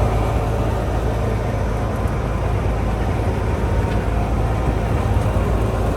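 Tourist train riding along, heard from aboard: a steady low rumble from its engine and wheels on the track.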